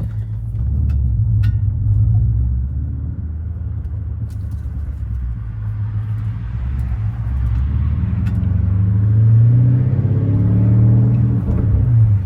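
BMW 550i's 4.4-litre twin-turbo V8, breathing through catless downpipes, an H-pipe and a muffler delete, running under way with a deep, steady rumble. In the second half the note grows louder and rises in pitch, then dips briefly near the end.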